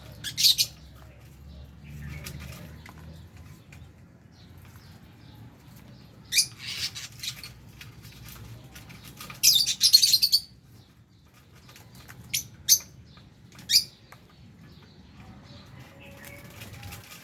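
Lovebirds in an aviary giving sharp, shrill chirps, singly and in short chattering bursts, with the loudest flurry a little past the middle.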